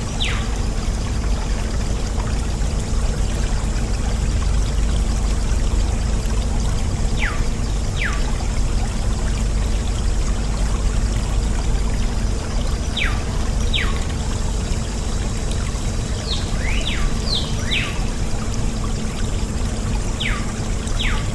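Water pouring in a steady stream from a small DIY water pump, with pairs of short falling whistles every few seconds.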